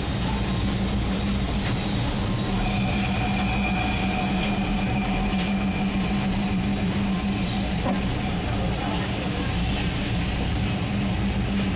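Train running slowly along the track with a steady low engine drone. A thin, steady higher tone is held for several seconds in the middle.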